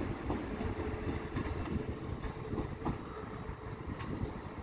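Northern Sprinter diesel multiple unit pulling away over the station's pointwork: a steady low rumble with a faint engine tone and a few scattered wheel clicks.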